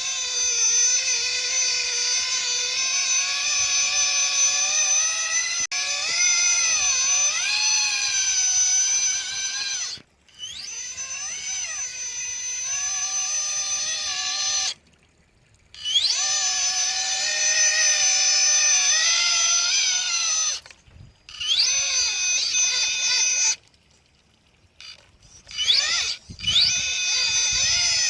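Electric motor and gear drive of a radio-controlled comp crawler truck whining, pitch rising and falling with the throttle. It stops and starts several times, sweeping up in pitch each time it spins up again, with a longer pause about three-quarters of the way through.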